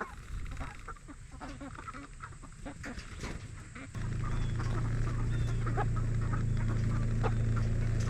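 Cornish cross meat chickens calling in their pen, short scattered peeps and clucks. About halfway through, a steady low hum starts suddenly and runs under the birds.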